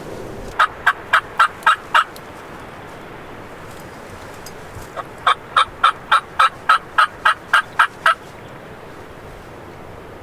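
Turkey yelping: a run of about six short yelps, then after a pause a longer run of about a dozen, around four a second. Steady wind noise runs underneath.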